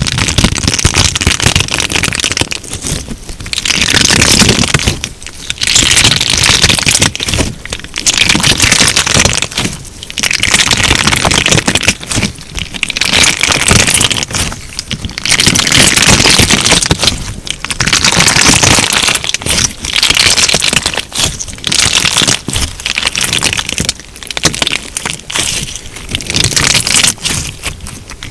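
Crunchy clear slime being squeezed and kneaded by hand, crackling and popping in repeated squeezes about every two seconds.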